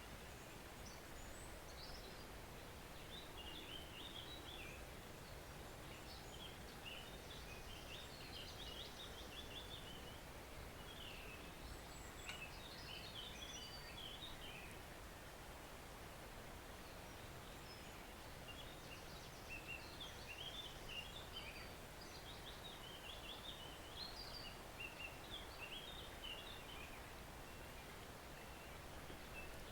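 Small woodland stream flowing as a faint, steady wash, with songbirds singing quick, chirping phrases that come and go every few seconds.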